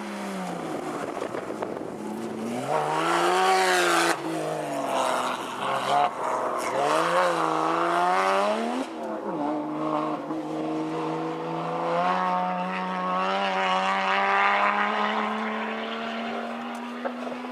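Porsche rally car's flat-six engine revving hard on a stage: its pitch climbs and drops sharply about four, six and nine seconds in as the driver lifts or shifts, then climbs slowly and steadily for several seconds.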